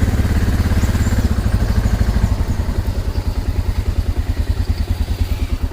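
Motorcycle engine running with a rapid, even beat that slows a little after about two seconds.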